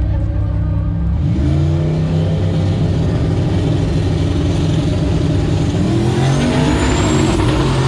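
A vehicle engine running loudly and revving, its pitch sweeping up about a second in and again near the end, with a faint high whistle rising late.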